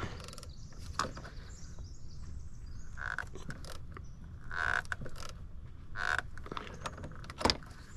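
A 10 mm wrench working the positive battery-terminal clamp, which the owner suspects is stretched and worn and won't tighten. There are scattered metal clicks and several short creaks, with one loud sharp knock near the end.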